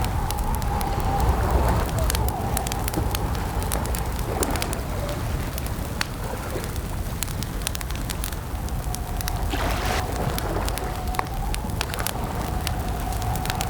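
Campfire crackling: irregular sharp pops and snaps over a low steady rumble, with a faint wavering tone held underneath for most of the time.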